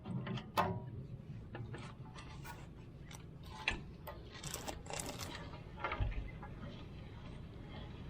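Irregular light clicks and knocks, with a brief scraping rustle between about four and five seconds and a dull thump about six seconds in.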